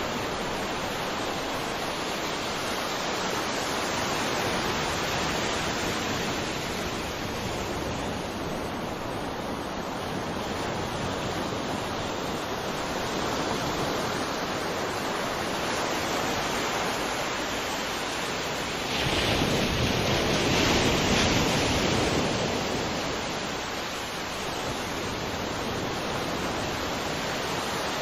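Ocean surf washing onto a shore in a continuous rush of water, with one bigger wave swelling louder about two-thirds of the way through and then ebbing.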